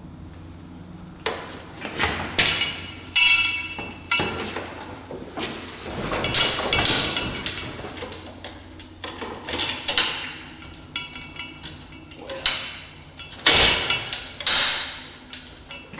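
Irregular metal-on-metal clanks and knocks from hand tools at work on the car, many of them ringing briefly after each strike.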